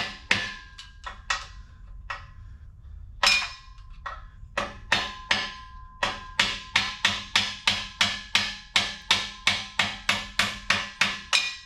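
Hammer striking the steel fittings of a folding engine hoist: sharp ringing metal-on-metal blows, a few spaced strikes at first, then a steady run of about two to three taps a second from about halfway. The hammering works the bolted eyelets and pins into line.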